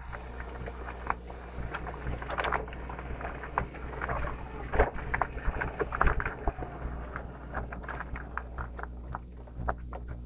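Razor MX350 electric dirt bike riding over bumpy pasture. A steady low hum from the drive runs throughout, under frequent irregular rattles and knocks as the bike bounces over the rough ground.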